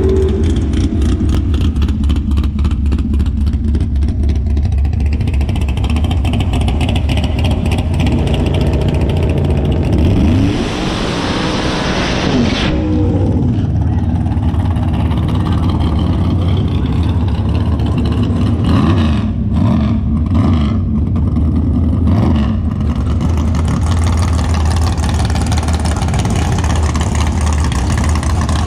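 Drag-racing Camaro's engine idling with a rough, rapid chop. Partway through comes a loud hiss lasting about two seconds.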